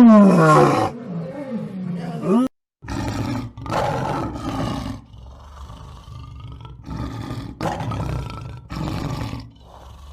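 Wild animal calls: a loud, pitched call that falls in pitch, then, after a brief break, a series of five rough, breathy roars or grunts, each about a second long.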